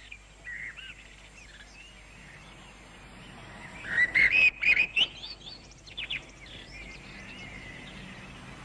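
Small birds chirping and twittering, with a busier burst of calls about four seconds in, over a faint steady low hum.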